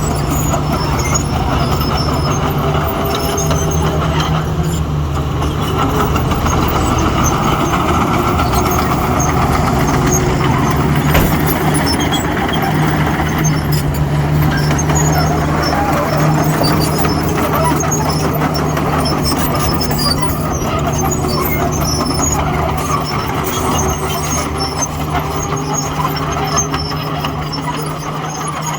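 Heavy diesel earthmoving machinery running steadily under load, its engine note wavering slightly, with scattered faint high metallic clinks.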